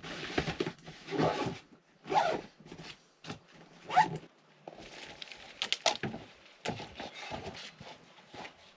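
A series of short, irregular rustling and scraping sounds.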